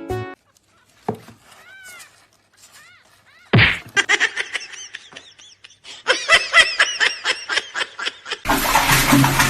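A person laughing in a quick run of high-pitched bursts, after a single loud thump. A steady rushing noise starts near the end.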